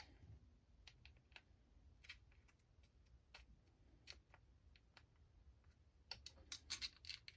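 Faint, scattered clicks and taps of small RC crawler chassis parts being handled and fitted together, with a quick run of sharper clicks about six to seven seconds in.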